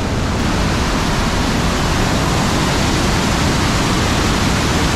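Rhine Falls waterfall rushing: a loud, steady roar of falling water that does not change.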